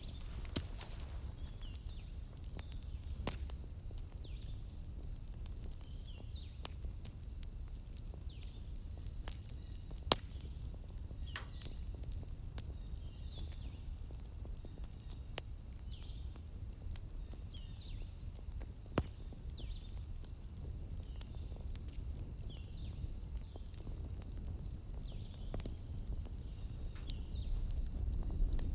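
Wood fire crackling, with occasional sharp pops every few seconds over a low steady rumble. A steady high-pitched pulsing chirp runs underneath throughout.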